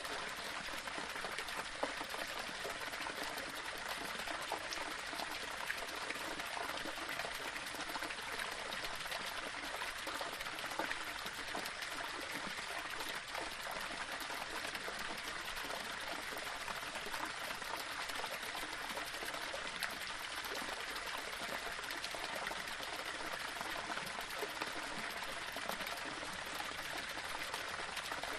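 Small waterfall splashing and trickling steadily over rocks, with a continuous rush of running water.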